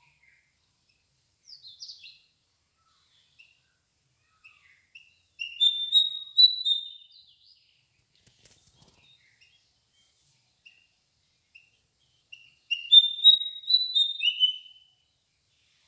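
A songbird singing: two loud phrases of quick, high chirping notes several seconds apart, with fainter single chirps scattered between them.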